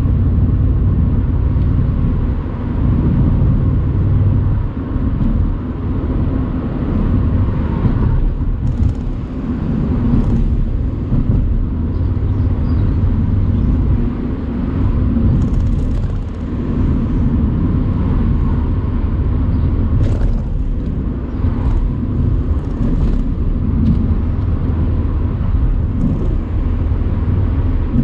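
Mercedes-AMG C63 convertible's 4.0-litre twin-turbo V8 running steadily on the move with the top down. The engine note eases off and picks up again a few times.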